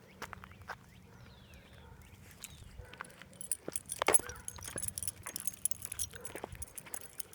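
Footsteps with light metallic jingling, growing busier about halfway through, over a faint low hum.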